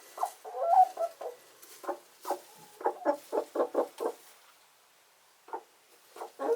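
Domestic hens clucking, a quick run of short calls that stops about four seconds in and starts again near the end.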